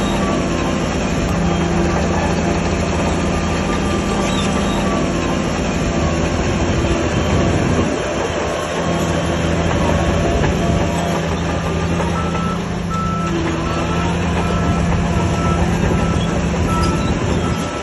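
Crawler bulldozer's diesel engine running under load with the clank of its steel tracks. About two-thirds of the way in, a reversing alarm starts beeping at a steady rate.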